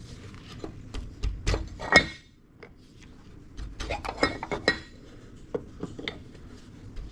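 Hand tool scraping and clinking against the water pump's metal housing, working at stubborn old silicone sealant: irregular short scrapes and sharp clicks in two bursts with a quieter pause between.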